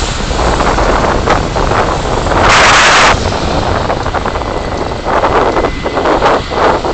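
Road and wind noise of a vehicle on the move, heard through a dashcam's microphone. There is a strong rush about two and a half seconds in and several shorter rushes near the end.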